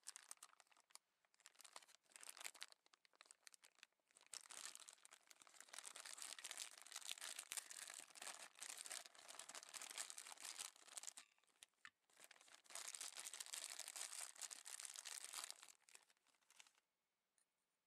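Thin plastic packaging crinkling and tearing in uneven bursts as it is handled and opened, stopping near the end.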